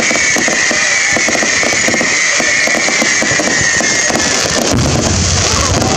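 Fireworks going off: dense, rapid crackling over a high whistle that slowly falls in pitch and fades about four and a half seconds in, with a low rumble starting shortly after.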